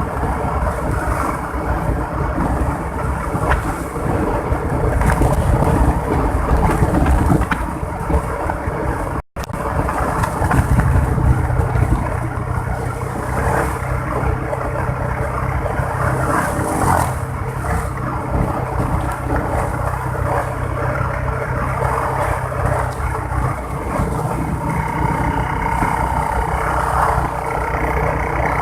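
Motorbike ride in traffic: engine running with steady road and wind noise. The sound drops out for an instant about nine seconds in.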